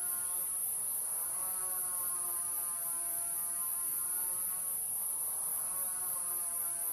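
An insect chorus trilling in a steady, high-pitched pulsing drone. Underneath it a softer held tone with overtones shifts pitch twice, like background music.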